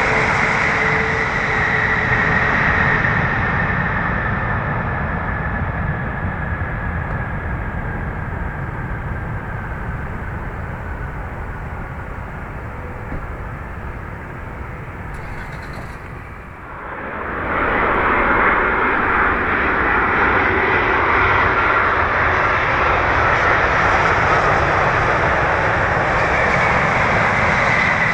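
Boeing 787-8 airliner's jet engines with a high whine that slowly falls and fades over the first half. After a sudden cut about 17 seconds in, another Boeing 787-8 comes in to land, its engines loud and steady with a high whine.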